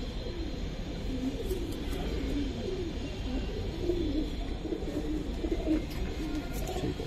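Domestic pigeon cooing: a run of low, wavering coos.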